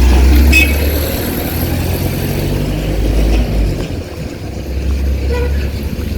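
Low rumble of a motor vehicle on the road, loudest for the first few seconds, easing and then swelling again near the end.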